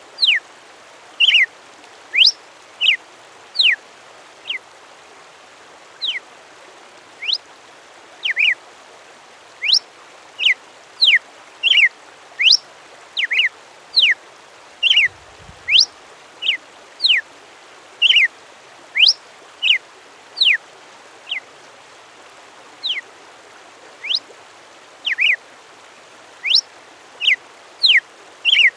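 A songbird singing a long series of short, sharp whistled notes, each a quick sweep up or down in pitch, a little more than one a second, over a steady background hiss.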